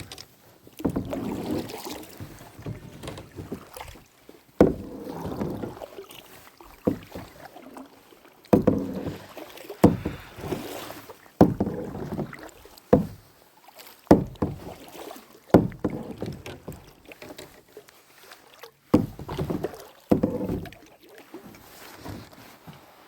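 Kayak paddling: a paddle stroking through the water about a dozen times, roughly every one to two seconds. Each stroke starts with a sharp knock and ends in a short swish and splash.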